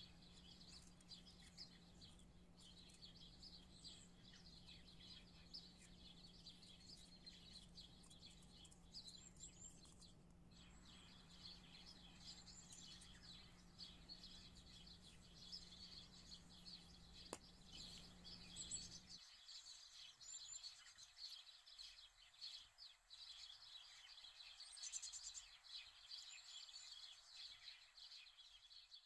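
Near silence: faint bird chirping in the background over a low steady hum, which cuts off about two-thirds of the way through.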